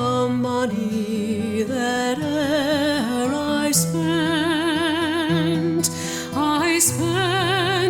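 Slow, wordless-sounding song: a solo voice holding long notes with heavy vibrato over sustained low accompaniment.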